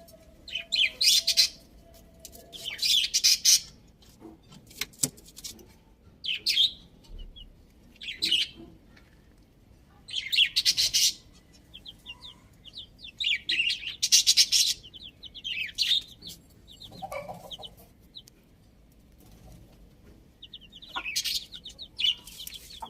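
Birds chirping and twittering in repeated short, high-pitched bursts, with runs of quick chirps between them.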